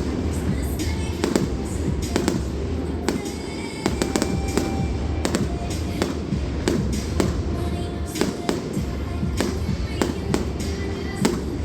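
Fireworks show: a steady run of sharp bangs and crackling reports, at times several close together, with music playing underneath.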